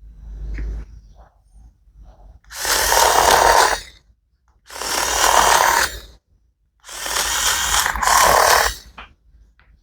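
Electric leather and paper cutter (DK-MCB06) running in three bursts of a second and a half to two seconds each, cutting through synthetic PU leather, after a softer low handling rumble at the start.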